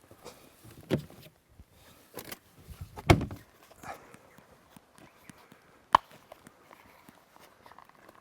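A few irregular thumps and knocks, the loudest about three seconds in, with a sharp click about six seconds in.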